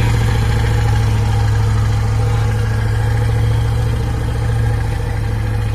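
Heavy truck's diesel engine running steadily at low, even revs, with a strong low hum.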